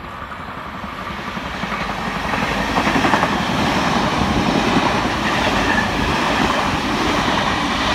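NSW TrainLink V set double-deck electric intercity train running past close below. It grows louder over the first two or three seconds, then holds a steady rumble of wheels and carriages on the rails.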